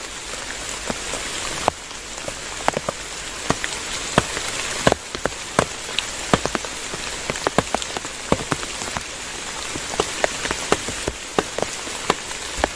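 Heavy rain falling steadily, with many separate sharp drop strikes close by.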